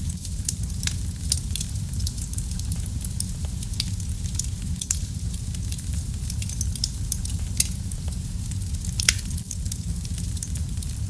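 Fire in a fireplace crackling: a steady low rumble of flame under a constant scatter of sharp crackles and pops, with two louder pops in the second half.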